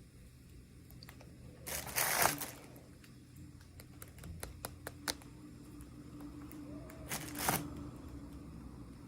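Plastic packaging crinkling in two short bursts, about two seconds in and near the end, with small clicks and taps from handling the pieces in between.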